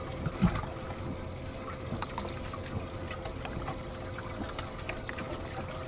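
Water trickling and splashing in a bass boat's live well as fish are handled and lifted out, with a knock about half a second in and small scattered clicks over a steady faint hum.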